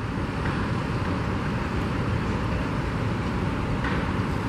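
Steady rumble of vehicle traffic and machinery at an active construction site.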